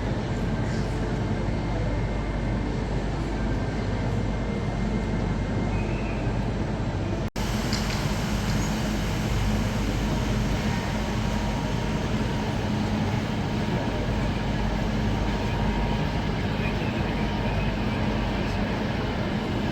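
Railway station ambience: a steady, dense rumble of trains and station noise under a large hall, with a momentary dropout about seven seconds in.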